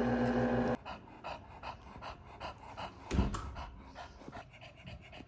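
Dog panting quickly, about three breaths a second, with a single low thump about three seconds in. A steady mechanical hum cuts off just under a second in.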